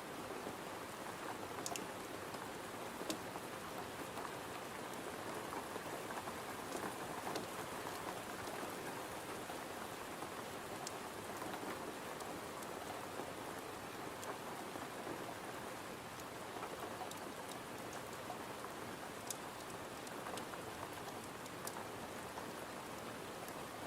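Steady rain tapping on a window, a constant even hiss with scattered sharp ticks.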